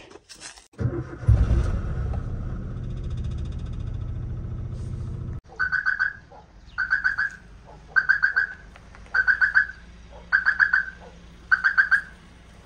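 Maruti Suzuki Wagon R hatchback's engine starting and running at idle close by. After about five seconds it drops away, and a short high chirping sound repeats about once a second over a faint engine hum.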